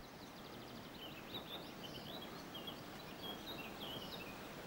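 Faint birdsong over quiet outdoor background noise: a quick trill near the start, then a run of short, high chirps.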